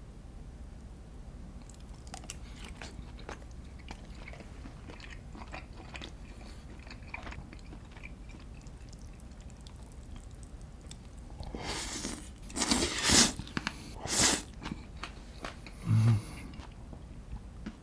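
A person eating close to the microphone: soft chewing and small mouth clicks, then a few louder, noisier bites or slurps near the end.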